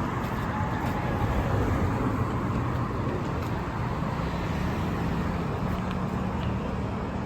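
Motorcycle engine running steadily with a low, even hum, over outdoor background noise.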